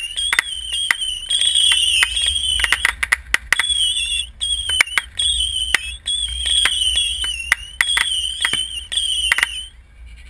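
Consumer fireworks going off: a high, wavering whistle held almost without a break, over many sharp, irregular crackling pops. Everything stops shortly before the end.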